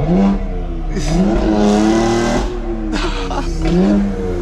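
BMW X3 M engine and exhaust revving hard in traffic, its pitch climbing and dropping several times, with a loud rush of exhaust noise about a second in.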